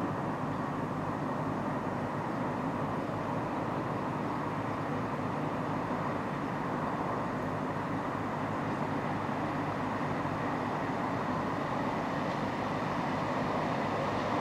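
Class 170 Turbostar diesel multiple unit approaching along the line, a steady rumble and hum that grows slightly louder near the end.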